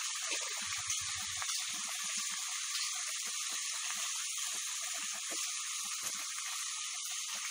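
Pieces of chicken sizzling steadily as they fry in a pot, being browned before the masala is cooked in.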